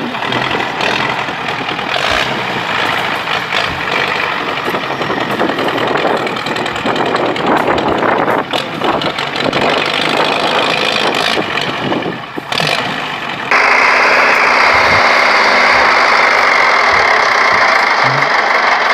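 Tractor diesel engine running hard under load. About thirteen seconds in the sound changes suddenly to a louder, steadier engine noise.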